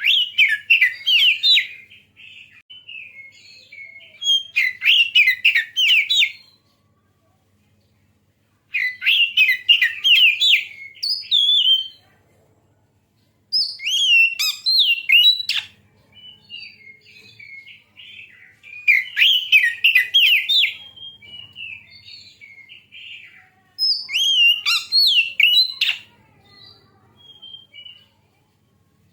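Oriental magpie-robin (kacer) singing. Loud phrases of quick, whistled warbling notes, each about two seconds long, come every four to five seconds, with softer twittering between them.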